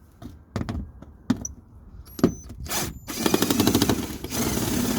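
Power drill-driver unscrewing an 8 mm screw from the car's plastic underbody cover, running in a fast rattling spin for about a second, then again near the end. A few separate clicks and knocks of the tool and the screw come first.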